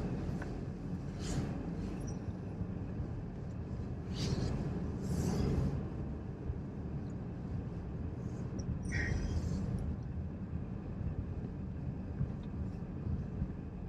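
Car running, a steady low rumble heard from inside the vehicle, with a few brief swishes about a second in, around four to five seconds in, and again near nine seconds.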